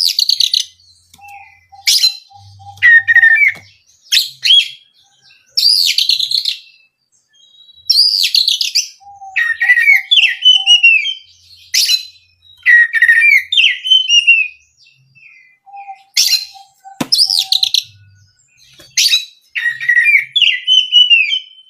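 Oriental magpie-robin (kacer) singing loud bursts of whistled and chirping phrases every second or two, some notes sliding downward, with short runs of softer, lower repeated piping notes between them. A sharp click about seventeen seconds in.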